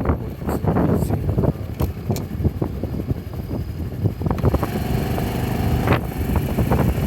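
Honda Super Cub Pro 110 motorcycle on the move, its small single-cylinder engine running under heavy gusty wind noise on the microphone. From about four and a half to six seconds a steady engine hum stands out more clearly.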